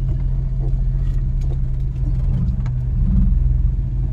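Car engine running with a steady low hum that grows a little louder for about a second past the middle.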